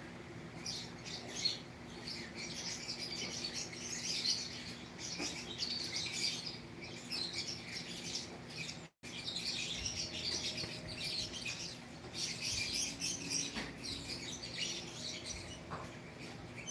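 Small birds chirping continuously in the background, many short high chirps overlapping, over a faint steady hum. The sound cuts out for an instant about nine seconds in.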